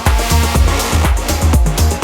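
Melodic techno with a steady pulsing kick drum and bass, and a bright hissing wash over the top in the first half.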